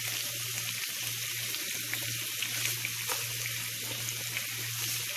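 Chopped onions, garlic and ginger sizzling in oil in a nonstick frying pan over a high flame, being sautéed to soften quickly, with a wooden spatula in the pan. A steady low hum runs underneath the sizzle.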